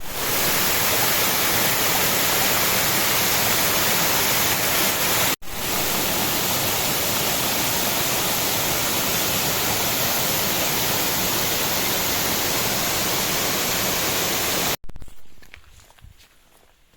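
Waterfall rushing loudly and steadily. The sound breaks off for an instant about five seconds in and stops abruptly near the end, leaving faint ticks.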